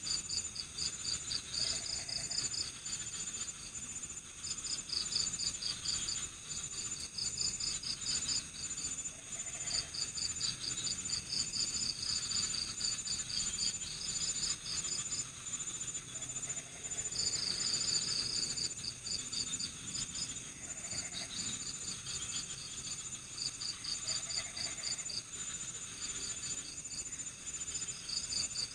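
Night insect chorus: crickets chirping in rapid pulsed trains, group after group, over a continuous high-pitched trill from other insects.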